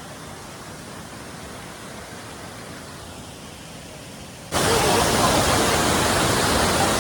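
Steady rush of a waterfall, fairly soft at first, then suddenly much louder about four and a half seconds in.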